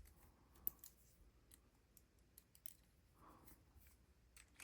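Near silence, broken by a few faint, sharp clicks from a padlock and lock-picking tools being handled.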